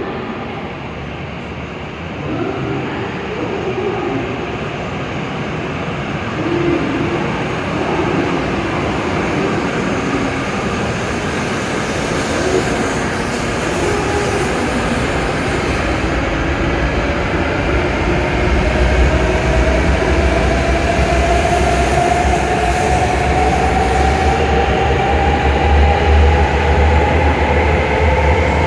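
E7 series Shinkansen train pulling out of the station and accelerating. Its traction motors give a whine that rises steadily in pitch over the second half, over a growing rumble that gets louder as it gathers speed.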